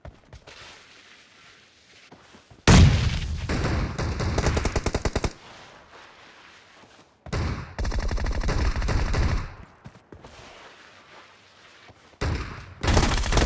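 Automatic gunfire in a team shooter video game: three loud bursts of rapid shots, each lasting about two seconds, with quieter gaps between.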